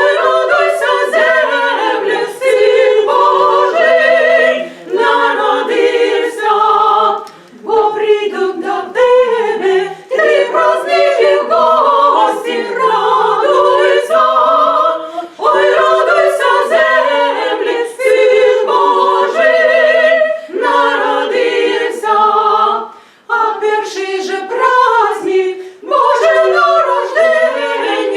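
Choir singing a cappella, several voices moving together in short phrases separated by brief breaths.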